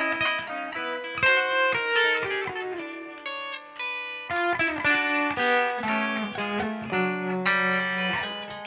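Guitar music: plucked notes and chords ringing out in a flowing melodic line.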